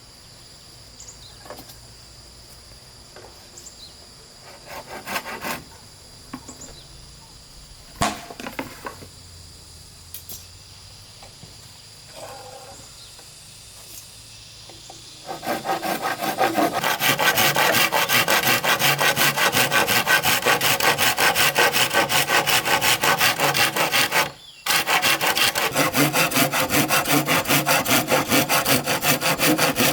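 A few scattered knocks, then about halfway through a saw starts cutting wood, a loud continuous rasping that breaks off for a moment and resumes near the end.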